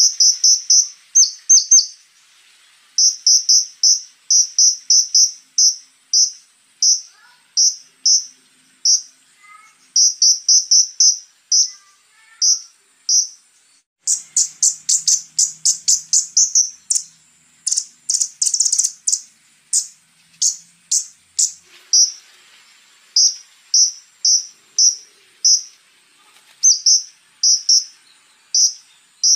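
Konin, a flowerpecker, singing runs of short, sharp, high-pitched chip notes separated by brief pauses, with a faster, denser and louder run in the middle.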